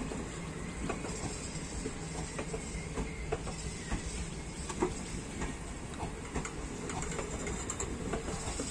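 Passenger coaches of an express train rolling slowly past: a steady rumble of wheels on rails with irregular clicks and knocks, one louder knock about five seconds in.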